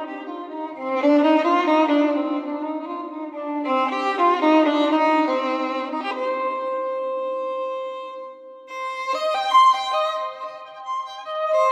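Background music: a solo violin playing a slow melody in phrases, with one long held note in the middle before it moves higher.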